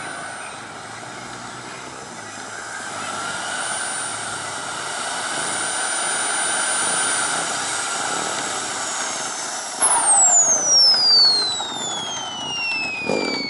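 KingTech K80 model jet turbine whining steadily, its pitch swelling and easing a little. About ten seconds in it is shut down, and the whine falls steadily in pitch as the turbine spools down, with a few louder knocks and a thump near the end.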